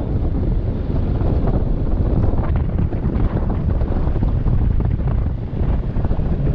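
Heavy wind buffeting the microphone of a moving motorbike: a steady, loud low rumble with constant gusty flutter.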